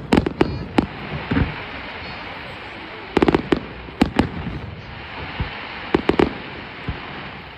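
Firework shells bursting in a display, sharp bangs coming in irregular clusters: a rapid run right at the start, more about three seconds in, and another pair about six seconds in, over a steady hiss.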